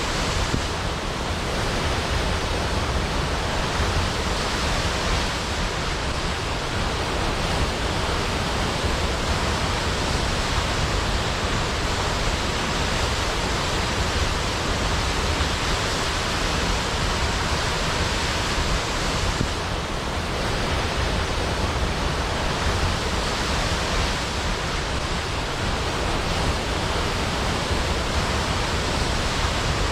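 Waterfall crashing into a pool: a steady, unbroken rush of falling water with a deep rumble underneath.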